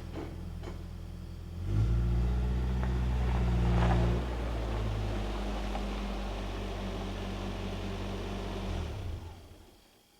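Nissan 4x4 pickup's engine idling, revved up about two seconds in, then running steadily before dying away near the end.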